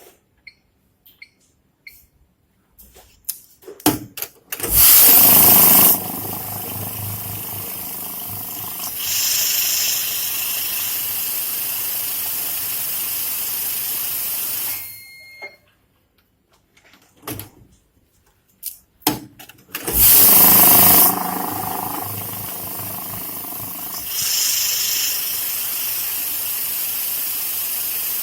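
Glory GNH-710 banknote counting machine running two counting cycles, each beginning with a loud burst as the notes feed through, then a steady motor whir that steps up briefly partway through before stopping. Light clicks of handling come before each run. The machine has a counting fault, which the owner puts down to a worn, unmaintained PRS unit making it count too many notes.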